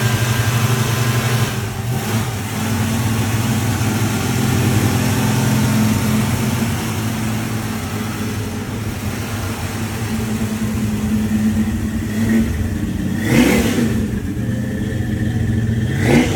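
A 1968 Pontiac GTO's 400 cubic-inch V8 running steadily at idle, with two quick throttle blips near the end, each rising and falling in pitch.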